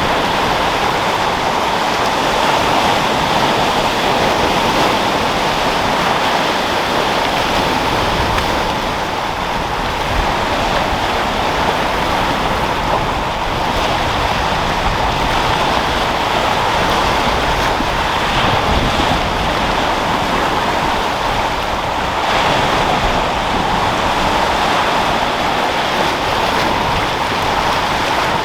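Sea waves surging and washing, with wind, as a steady rushing noise with no distinct single breakers standing out.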